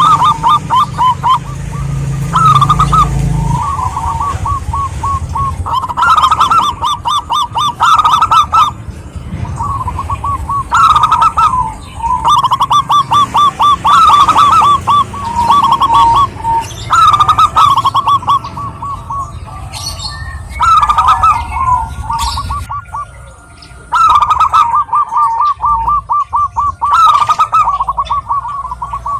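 Zebra doves (perkutut) calling: rapid, rolling staccato coos in repeated phrases, one after another with short gaps.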